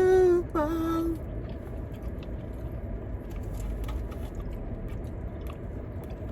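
A short hummed note of a person's voice in the first second, then faint chewing and small mouth clicks of someone eating.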